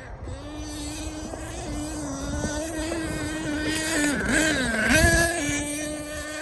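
Small nitro engine of an HPI Savage X 4.6 RC monster truck running at a high, steady pitch. It grows louder, dips and rises quickly in pitch about four to five seconds in, is loudest around then, and eases off afterwards.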